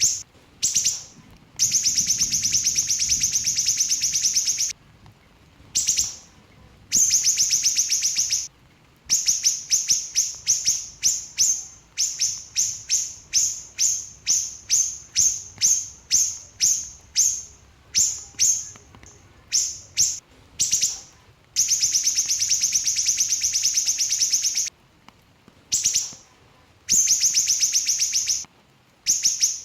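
Small siri-siri bird singing in fast, dense 'nembak' bursts: long high-pitched rapid trills lasting a few seconds, alternating with runs of short sharp chirps about two a second, broken by brief pauses.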